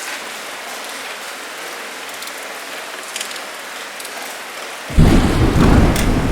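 Steady rain hiss with scattered drip ticks. About five seconds in, thunder breaks in suddenly and loudly as a deep rumble that carries on.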